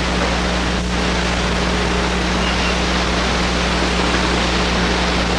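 Steady hiss with a low electrical hum under it, the background noise of an old home-movie soundtrack.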